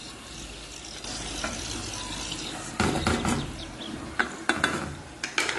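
Tuna chunks frying in butter and oil in an aluminium pot with a steady sizzle. A utensil clicks and scrapes against the pot about three seconds in and again near the end as the pieces are moved.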